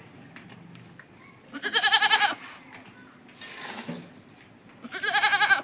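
Goat bleating: two loud, wavering calls, each under a second long, about three seconds apart.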